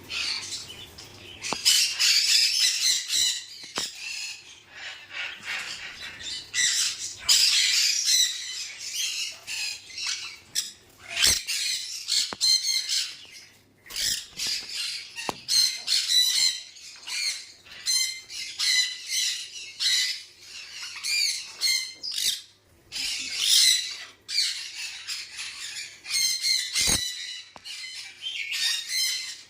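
A flock of small pet parrots chattering and squawking together in a dense, continuous chorus of high, short calls, with a few soft knocks.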